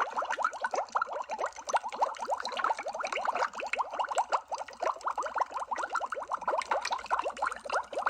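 Water bubbling steadily: a dense stream of quick, overlapping bubble blips, like air bubbling up through water.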